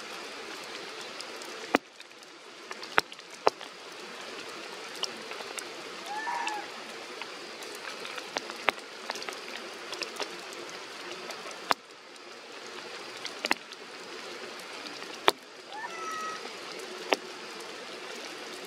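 Steady rain falling through foliage, with large drops striking close by as sharp, loud clicks every few seconds. Brief high calls are heard about 6 seconds in and again near 16 seconds.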